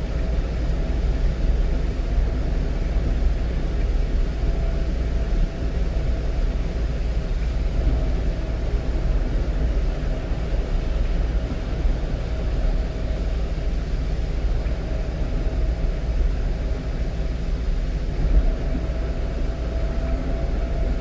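Steady engine and road noise heard inside the cab of a 1-ton truck at highway speed: a constant low rumble with a faint steady hum.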